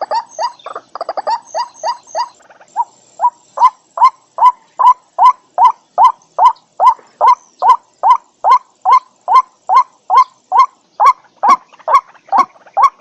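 White-breasted waterhen calling: a loud, repeated croaking note, hurried and jumbled at first, then settling into an even series of about two to three notes a second.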